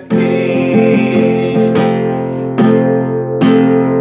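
Music: an acoustic guitar strumming chords, with strong strokes about every second, and a voice on one word near the start.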